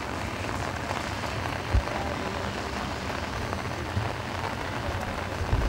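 Heavy monsoon rain falling on a wet paved road, a steady hiss, with a couple of short low thumps about two seconds in and near the end.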